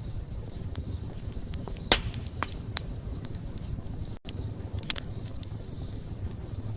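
Wood campfire crackling, with a steady low background of burning and sharp pops scattered through it, the loudest about two seconds in and others near three and five seconds. A split-second dropout occurs just past four seconds.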